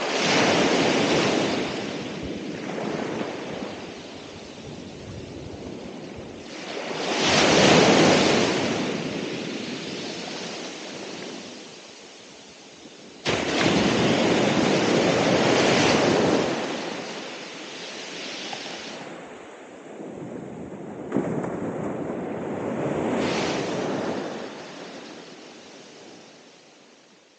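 Ocean surf: waves break and wash ashore in four swells several seconds apart, then the sound dies away near the end.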